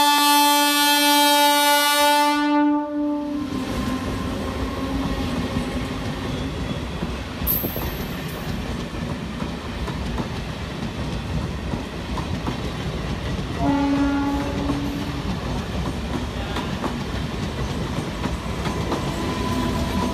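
Indian Railways diesel multiple unit (DEMU) sounding a long horn blast that stops about two and a half seconds in. The train then passes close with a steady rumble and the clatter of wheels over rail joints. A second, shorter horn note sounds about two-thirds of the way through.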